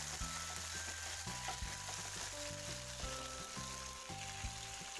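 Whole chilies and garlic cloves sizzling in hot oil in a non-stick frying pan as they are stirred, with a few light clicks of the stirring. Background music plays underneath.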